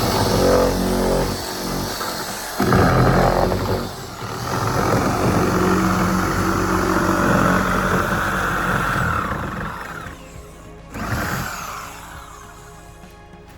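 Electric power tool running in several bursts of cutting, its motor pitch shifting under load, over background music.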